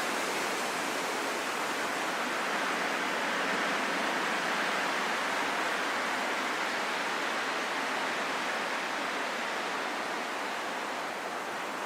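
Steady rushing wind, an even hiss with no gusts or tones, swelling slightly in the middle and easing a little near the end.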